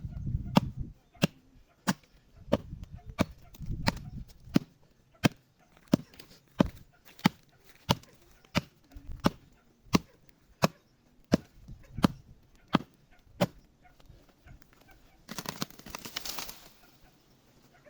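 Wood being chopped by hand for a bonfire: about twenty sharp, steady blows, roughly one and a half a second, which stop about three quarters of the way through. Near the end comes a short rustling crash as the cut wood comes away.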